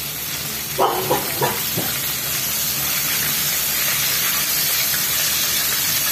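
Breaded chicken pieces sizzling steadily in hot oil in a wok, the sizzle growing a little louder. About a second in, metal tongs knock a few times as the pieces are turned.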